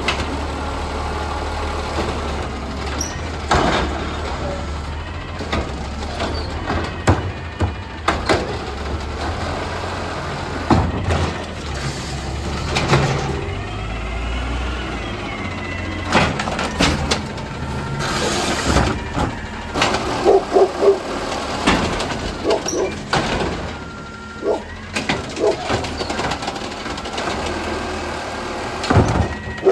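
Amrep garbage truck running with a steady low engine hum, over many sharp metallic clanks and knocks from the collection work. Bursts of air hiss come about 16 and 18 seconds in.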